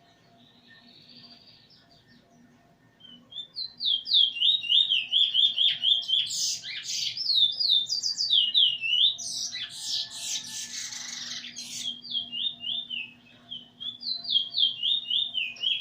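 A songbird singing: quick runs of repeated high, down-slurred notes starting about three seconds in, with a harsher, rasping stretch about two-thirds of the way through.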